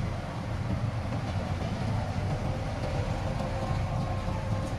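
Heavy diesel earthmoving machinery running steadily, a continuous low engine rumble with a faint steady whine above it.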